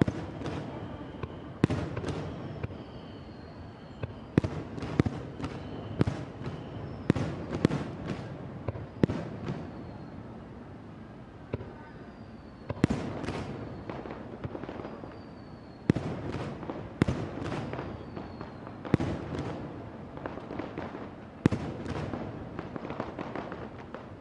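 Aerial fireworks display: a long run of sharp shell bursts, many in quick clusters, each followed by a rolling rumble. Faint high whistles falling in pitch sound between the bangs.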